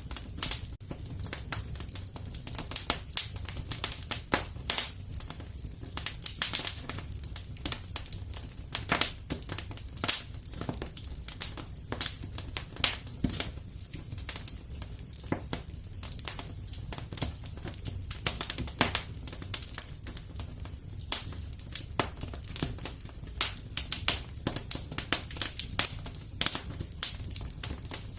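Wood fire crackling and popping in a fireplace: frequent irregular sharp snaps over a steady low rumble of the flames.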